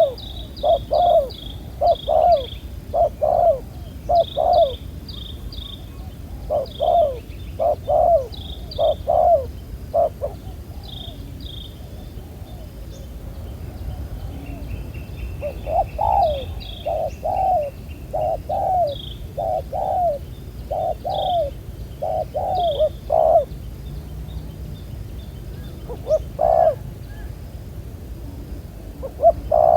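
Spotted doves cooing: runs of low, repeated coos broken by pauses of a few seconds. Short high chirps from another bird sound over them, and there is a brief fast rattle about halfway through.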